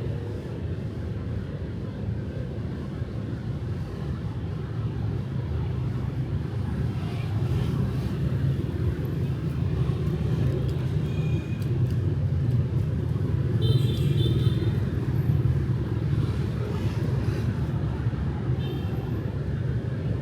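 Night street traffic in Vietnam: a steady low rumble of motorbikes and cars passing, swelling somewhat louder in the middle, with a couple of short high-pitched beeps in the second half.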